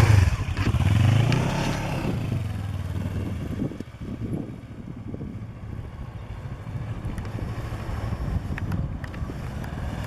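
Kawasaki Ninja 650R motorcycle's parallel-twin engine rising and falling in pitch as the bike pulls away in the first two seconds, then running on lighter and quieter as it rides off at low speed.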